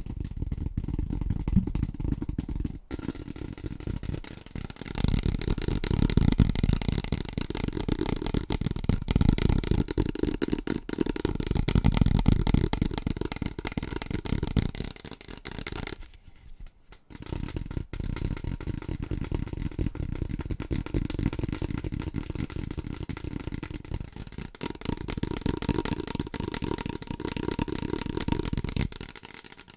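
Very fast fingertip tapping on assorted household objects, a dense run of dull, low-pitched taps that switches to a different object every few seconds, with a short break about halfway through.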